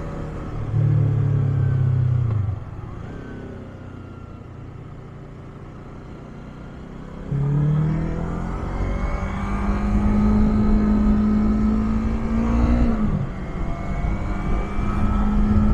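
Yamaha MT-25's parallel-twin engine through its stock muffler. A short loud burst of throttle comes about a second in, followed by a quieter stretch. About halfway through it pulls hard with the pitch climbing, drops sharply at a gear change near the end, then pulls on again.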